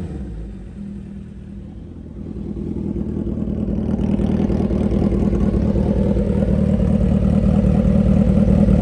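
2008 Suzuki Hayabusa's 1340 cc inline-four engine idling steadily, just after a rev has died away. It is quietest about a second in, then grows louder over the next few seconds and holds steady.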